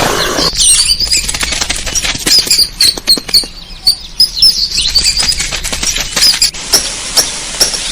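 Small birds chirping in quick, short, high notes over a dense fluttering of wings.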